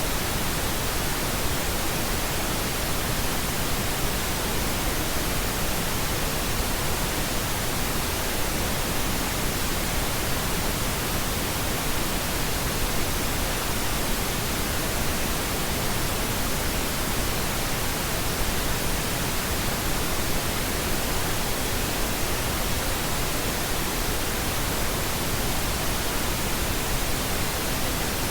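Pink noise: a steady, even hiss spread evenly across the whole range from deep to high, unchanging throughout.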